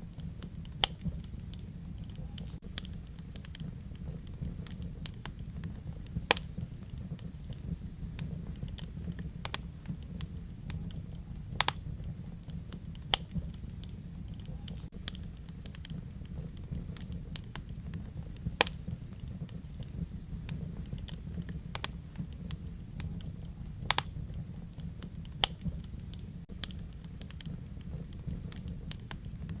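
Wood fire crackling in a fireplace: a steady low rumble from the burning logs, with irregular sharp pops and snaps, a few of them much louder, every few seconds.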